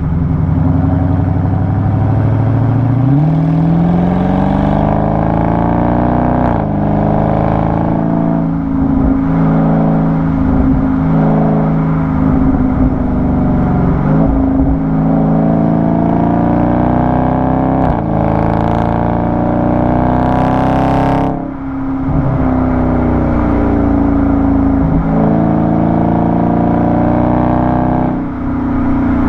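Exhaust of a Dodge Charger 392's 6.4-litre Hemi V8, heard close at the tailpipe, pulling through the gears: the pitch climbs and drops back again and again as it revs and shifts. It eases off briefly twice, near the three-quarter mark and near the end.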